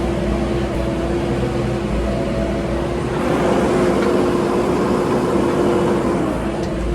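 Heavy diesel engine of earthmoving machinery running steadily. It works harder and louder from about three seconds in, then eases near the end.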